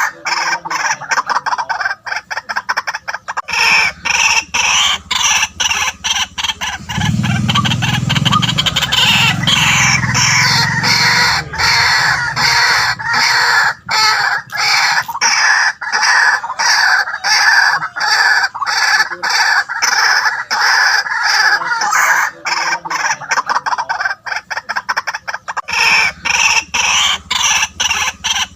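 White-breasted waterhens calling: a fast, unbroken run of loud, repeated croaking notes, with a deeper sound underneath for several seconds about a quarter of the way in.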